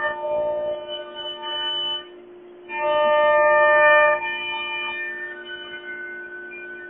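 Yimming 1325C CNC router running, its motors giving a pitched, musical-sounding whine that shifts in tone from move to move. It drops away briefly about two seconds in and is loudest a second or so later, over a steady background hum.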